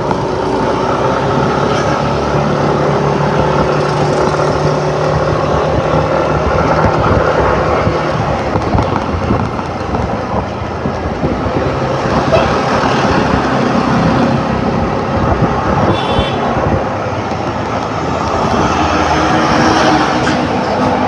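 Motor scooter engine running while riding, with wind and road noise; the engine's hum shifts in pitch as speed changes.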